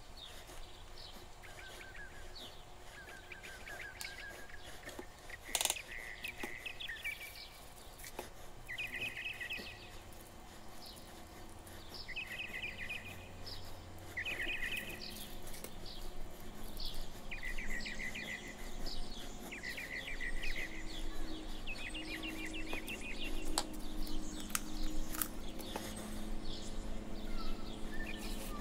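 Birds chirping: short calls, often in quick pairs, every second or two, with one sharp click about five and a half seconds in.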